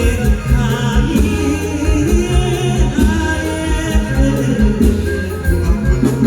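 Live mor lam band music with a singer: a wavering, ornamented vocal line over a heavy, pulsing bass beat.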